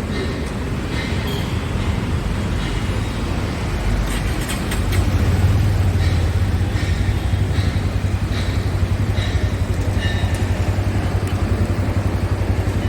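Road traffic noise with a vehicle engine running close by, a steady low rumble that grows louder about five seconds in.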